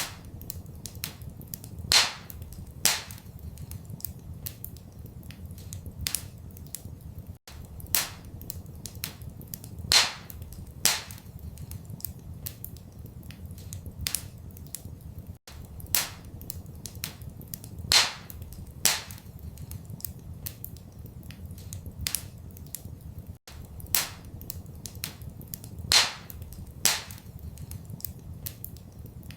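Wood fire in a fireplace crackling, with frequent small snaps and a few louder pops, over a steady low rumble. The pattern of pops repeats about every eight seconds.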